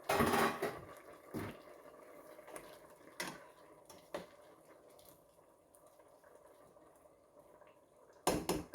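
Kitchen cookware and utensils clattering: a loud clatter at the start, a few separate knocks and clicks, then another quick cluster of knocks near the end.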